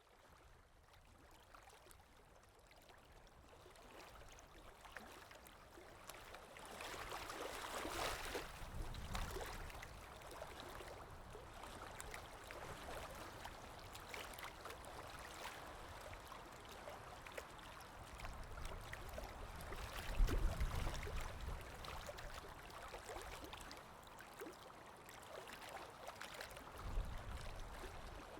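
Watercolour brush working on paper, a faint scratchy rustle with many small clicks. There are a few low knocks about twenty seconds in and again near the end.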